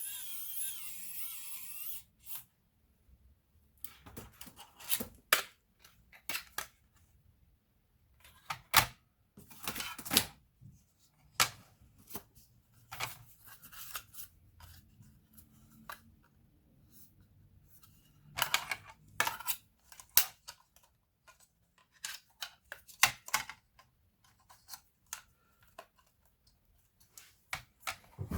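Scattered small clicks, taps and rustles of hands handling laptop parts and tools, irregular with short pauses between. A steady, higher sound cuts off about two seconds in.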